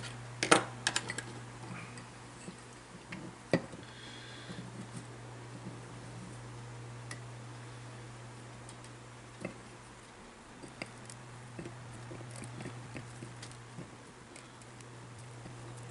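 Scattered clicks and taps of small parts and tools being handled while a tool post grinder motor is taken apart, over a steady low hum. The sharpest clicks come about half a second in and again about three and a half seconds in.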